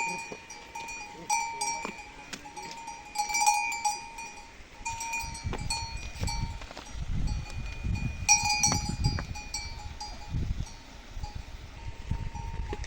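Metal livestock bells clanking and ringing irregularly, as on sheep or goats moving about, with many uneven strikes. A low rumbling noise runs under the bells through the middle.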